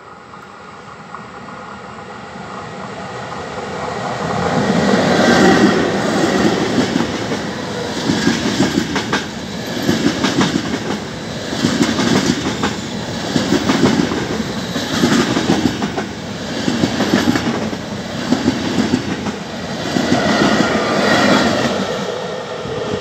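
Intercity train hauled by two E414 electric locomotives passing at speed. Its noise grows as it approaches, then the wheels beat over the rail joints in a regular clickety-clack, swelling about every two seconds as each coach goes by. It is louder again near the end as the rear locomotive passes.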